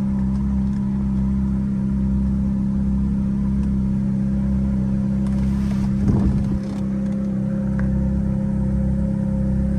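Ferrari F430's 4.3-litre V8 idling steadily, with a short rustle about six seconds in.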